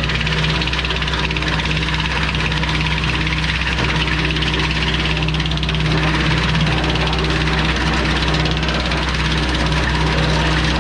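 Valby PTO wood chipper running off a Kubota L3301 tractor's three-cylinder diesel engine, a loud, steady drone with a constant hum and rushing noise.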